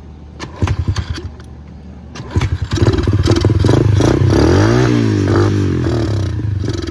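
Small single-cylinder pit bike engine (125cc Coolster) being revved while warming up on part choke: two quick throttle blips, then a longer rev that climbs and falls back, easing off near the end.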